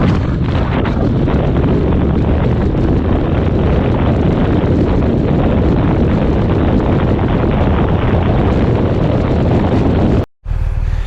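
Motorcycle riding at speed: heavy wind rushing and buffeting over the microphone, with engine and road noise underneath. It cuts off suddenly near the end.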